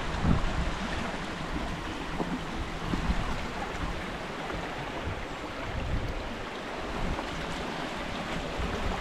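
River water rushing steadily, with uneven low gusts of wind on the microphone.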